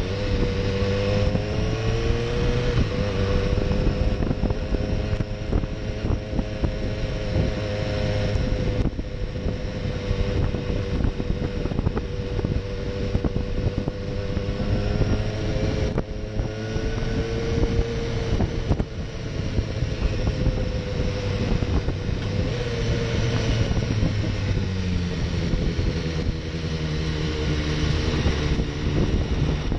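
BMW S1000R's inline-four engine running at low road speed, its pitch rising and falling gently with the throttle.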